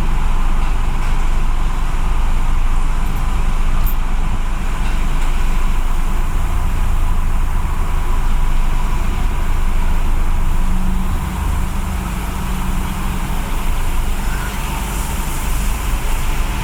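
Automatic tunnel car wash equipment running around a car, heard from inside the car as a steady low rumbling noise that eases a little about eleven seconds in.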